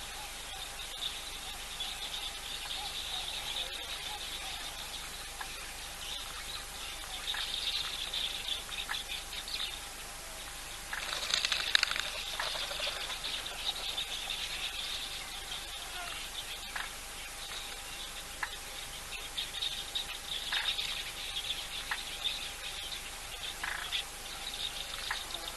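Outdoor bush soundscape of birds and insects: a steady high chirring chorus with repeated chirps, a few sharp ticks, and a louder bird call about eleven seconds in.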